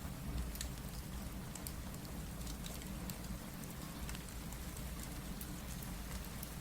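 Steady rain mixed with a crackling fireplace: an even hiss and low rumble, with scattered sharp crackles and ticks throughout.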